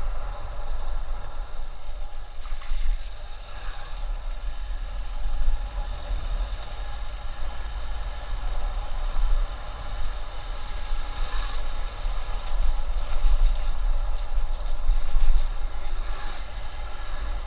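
Motorcycle on the move: a steady mix of engine, road and wind noise with a heavy low rumble.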